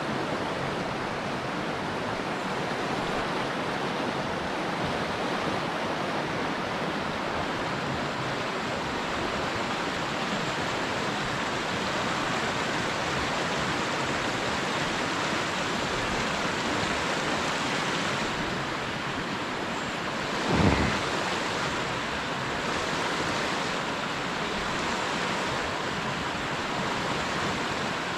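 Steady rush of a small river's flowing water, with a single brief bump about twenty seconds in.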